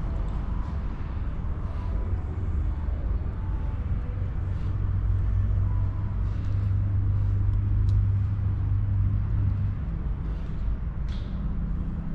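Steady low rumble with a few light clicks, like hand tools and bolts on the engine case.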